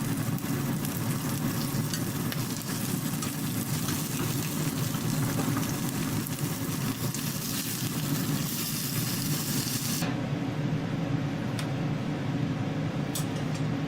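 Food frying and sizzling in a pan over a steady low hum. The sizzle cuts off abruptly about ten seconds in, leaving the hum and a few light clicks.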